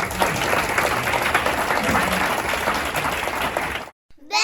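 Audience applauding, steady, then cut off abruptly near the end.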